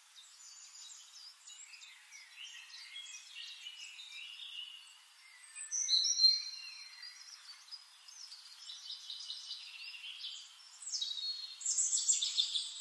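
Small birds chirping and singing, several overlapping calls, with one louder call about six seconds in and a louder run of chirping near the end.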